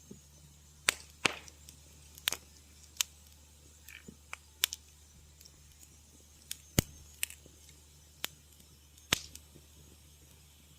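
Wood fire in a fireplace crackling: irregular sharp pops and snaps, several loud ones, over a low steady rumble of the flames.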